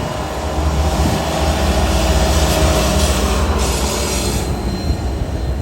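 A train passing close by: heavy locomotive engine rumble mixed with the noise of wheels on the rails. It builds to its loudest about two to three seconds in, then eases slightly.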